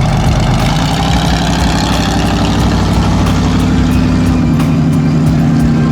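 Monster truck engine running steadily at a low, even pace, with no revving.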